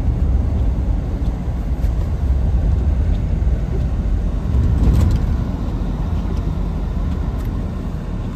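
A car driving on a snowy road: a steady low rumble of engine and tyres, swelling briefly about five seconds in.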